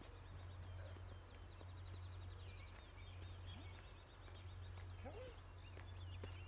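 Faint outdoor birdsong: a bird gives a rapid, high trill of quickly repeated notes through the first few seconds, then scattered chirps, over a steady low rumble.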